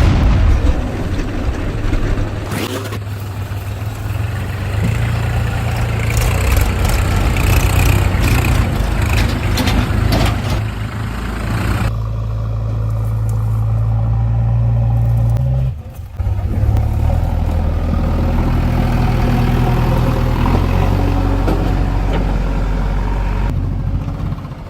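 Diesel engine of a heavy machine (JCB or tractor) running hard under load, a loud, low, steady drone that changes pitch a few times. The sound cuts out briefly about sixteen seconds in.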